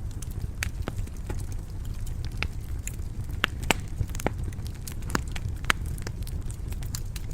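Wood fire crackling in a stone fireplace: irregular sharp pops and snaps over a steady low rumble of the flames, with a few louder pops around the middle.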